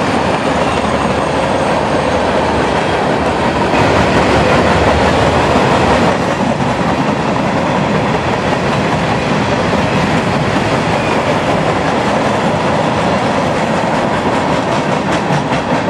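Freight train cars rolling past close by: steel wheels running on the rails in a loud, steady noise.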